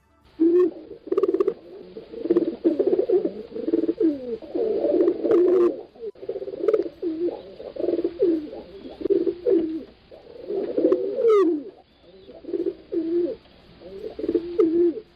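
Several pigeons cooing, with low, wavering coos overlapping one another almost without a break. A short, high, rising squeak comes about eleven seconds in.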